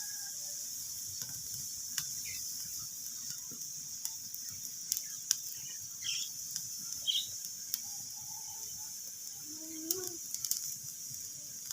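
Wood fire crackling in a fireplace: sharp, irregular pops and snaps over a steady hiss. A few short, faint animal calls sound in the background, the clearest a rising call about ten seconds in.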